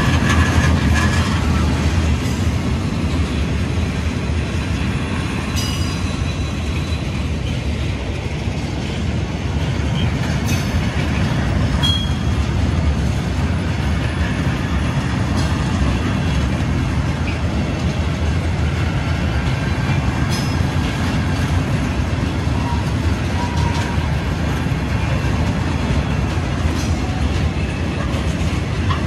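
Freight train of bogie tank wagons rolling past at close range: a steady rumble of wheels on rail with scattered clicks and a couple of short, high wheel squeals.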